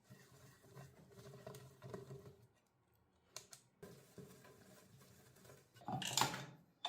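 Faint clinks and handling of metal engine parts, with a few sharp clicks, then a louder scraping rattle about six seconds in.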